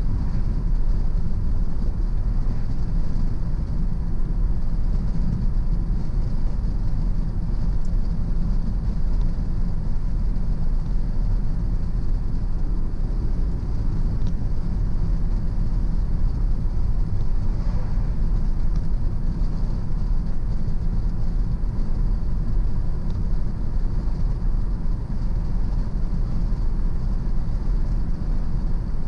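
Car driving at a steady speed: a continuous rumble of engine and tyres on the road.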